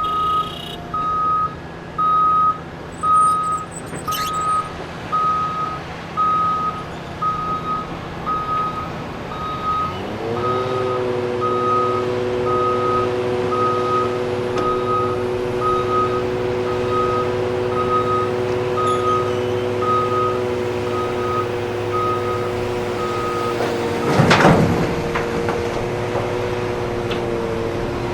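A heavy-equipment backup alarm beeps steadily, a little under two beeps a second, over running diesel engines and stops near the end. About a third of the way in, a diesel engine speeds up and holds a steady high drone. A single loud crash comes about three-quarters of the way through.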